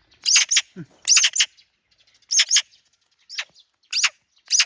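A bird calling: short, sharp chirps that sweep downward, coming in pairs and threes, about ten in all.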